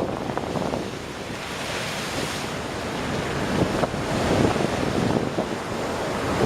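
Ocean waves breaking and washing over a rocky shore, a heavy surge building near the middle, with wind buffeting the microphone.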